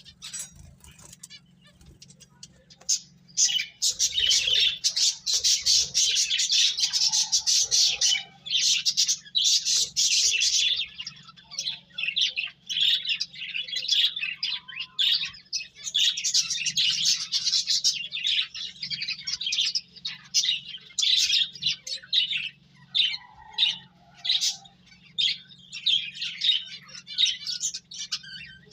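Pet finches chirping: a dense run of rapid, short, high calls, many overlapping, starting about three seconds in and going on with brief gaps.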